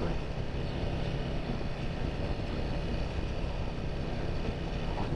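Royal Enfield Himalayan 450's single-cylinder engine running at a steady speed as the motorcycle rides along, its low hum holding an even pitch throughout.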